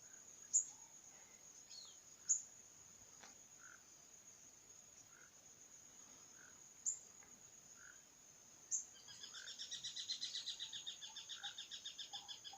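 Faint outdoor animal chorus: a steady high-pitched insect drone, a few sharp chirps, and from about nine seconds in a rapid pulsed trilling call of roughly seven pulses a second.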